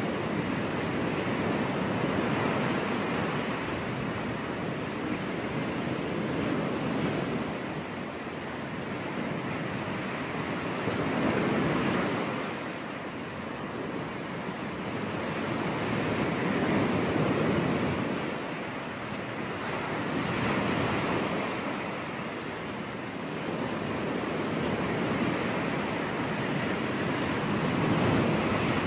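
Ocean waves breaking and washing on a beach, the surf swelling and easing every few seconds, with some wind on the microphone.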